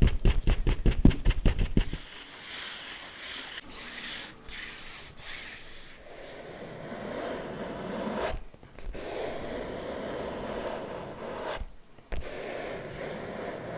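ASMR tapping with the hands: a quick run of sharp taps, about six a second, for the first two seconds. Then slow scratching and rubbing on an object's surface, broken by two brief pauses.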